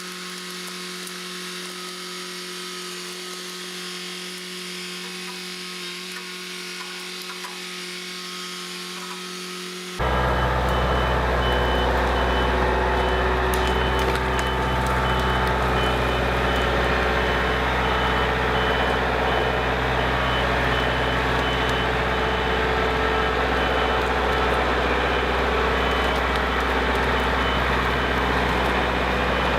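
A steady, buzzing machine drone, then from about ten seconds in the louder low rumble of the Kubota L47 tractor's diesel engine running, with a reversing alarm beeping repeatedly over it.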